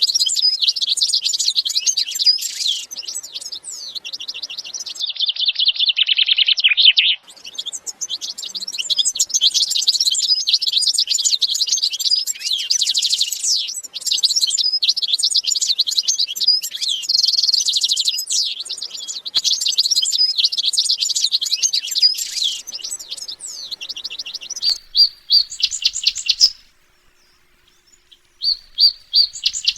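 Many small cage birds chirping and twittering together in a dense, fast, high chorus. The chirping breaks off briefly about seven seconds in, stops near the end for about two seconds, then a few short chirps start again.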